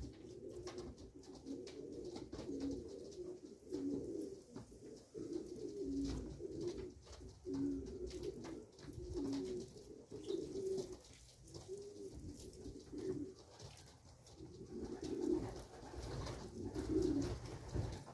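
Racing pigeons cooing, a run of low coos one after another.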